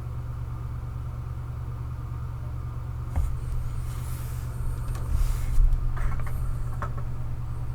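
Steady low hum, with a few soft knocks and rustling sounds in the middle.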